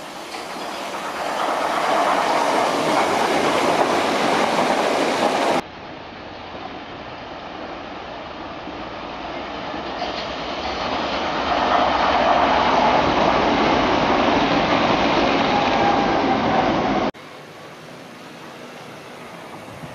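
Electric passenger trains running past on the line, the noise of wheels on rail building up and holding. It is heard as two separate passes, each cut off suddenly, about a third of the way in and again near the end.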